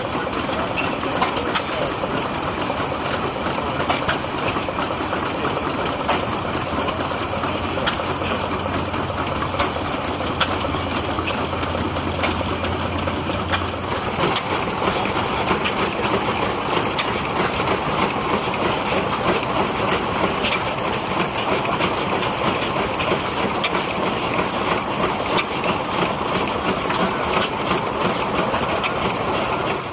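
An engine running steadily with a dense clatter of small clicks, and a low hum that drops away about halfway through.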